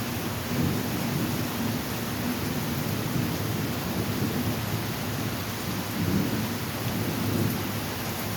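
Heavy rain falling steadily during a thunderstorm, with a low rumble of thunder that swells a few times, most strongly about six seconds in.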